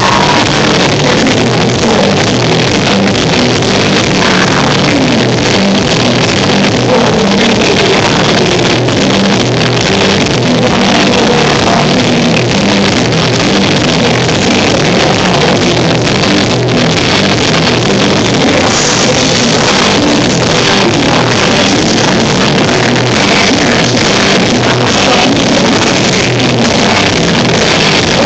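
A rock band playing live, electric guitars and a drum kit, loud and steady, recorded on a phone with poor sound quality.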